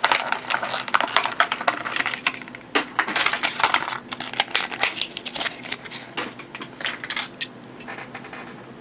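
Quick clicking and clattering of a diecast model car and its hard plastic packaging being handled during unboxing. The clicks are dense for the first few seconds, then thin out and stop near the end.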